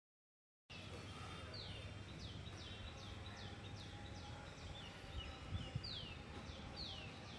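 Birds chirping: a series of short, quick chirps, each falling in pitch, scattered irregularly over a steady low background rumble. They begin about a second in, after a brief dead silence.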